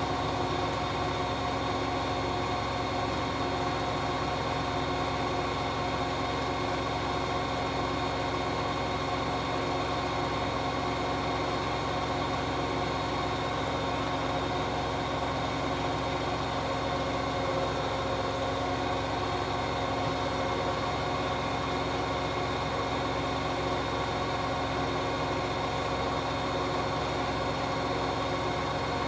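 Hoover H-Wash 600 integrated washing machine on a 1400 rpm spin-and-drain cycle, its drum spinning at a steady speed with an even, unchanging whine and hum.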